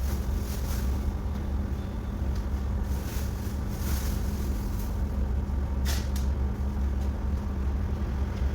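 Steady low motor hum, with a few short crackles over it.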